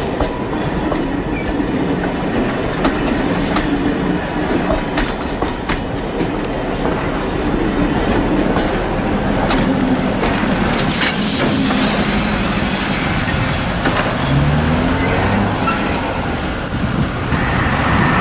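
Vintage passenger coaches rolling past close by, a steady rumble with wheels clicking over the rail joints. In the second half, high thin wheel squeals come and go.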